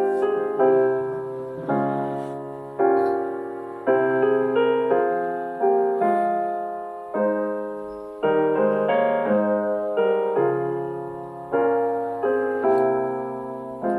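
Slow, gentle piano music: sustained chords struck roughly once a second, each ringing and fading before the next.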